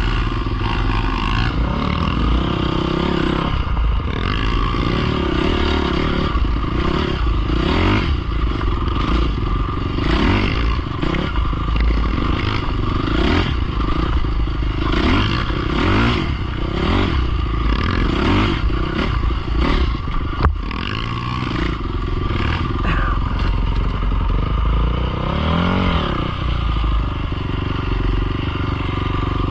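Dirt bike engine revving up and down over and over, its pitch rising and falling about once a second as the throttle is worked while riding. There is a single sharp knock about two-thirds of the way through.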